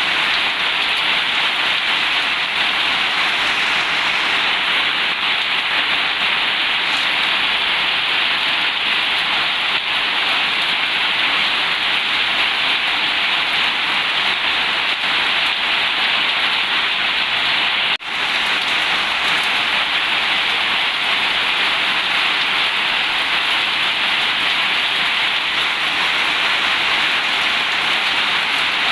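Heavy rain pouring steadily onto a zinc roof, an even, dense hiss, with a brief sudden dip about eighteen seconds in.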